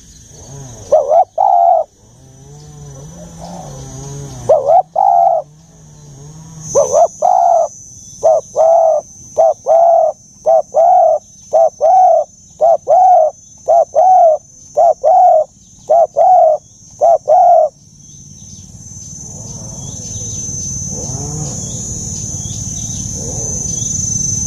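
Spotted dove cooing with a deep voice: phrases of short coos, then a long even run of about one and a half coos a second that stops a little before the last quarter, after which a rising haze of noise takes over.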